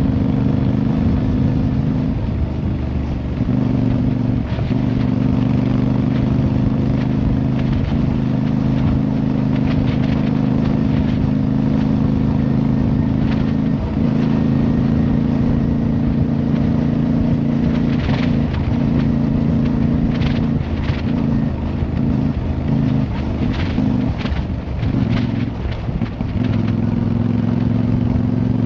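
Motorcycle engine running steadily under way, its pitch shifting in steps every few seconds, with a few short sharp clicks in the second half.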